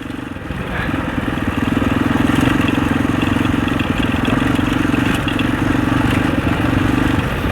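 Husaberg 650 single-cylinder four-stroke enduro engine pulling under throttle while riding over rocks: the engine note rises about a second in, holds steady, and eases off near the end.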